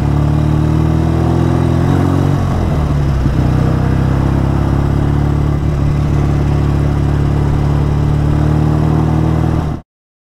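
BSA A10 Super Rocket's 650 cc parallel-twin engine running steadily under way, with a small shift in pitch about two seconds in. It cuts off suddenly near the end. The rider finds it 'not happy', still running lumpy after carburettor adjustments that didn't fix it.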